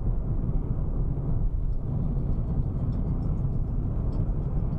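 Steady low rumble of a car on the move, engine and road noise, with faint light ticks from about two seconds in.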